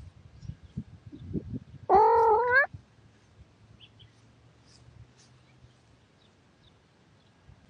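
A domestic cat gives one loud meow of under a second, rising in pitch at its end, after a run of soft low knocks and rustling.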